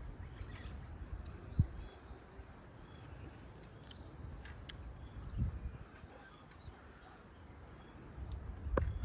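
Steady high-pitched insect chorus, with low rumble and a few knocks, the sharpest about a second and a half in.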